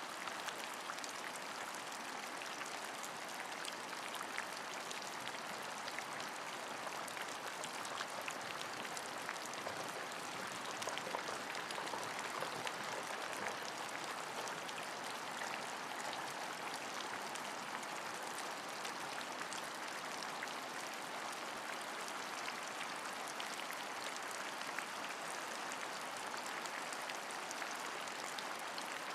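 Steady rain falling: an even, dense patter of many small drops, unbroken.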